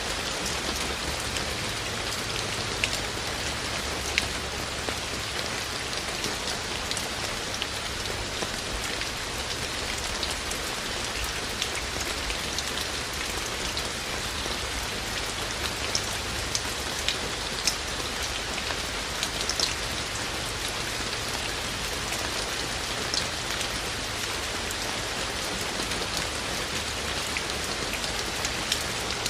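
Steady rain falling, an even hiss with scattered louder drops ticking sharply now and then.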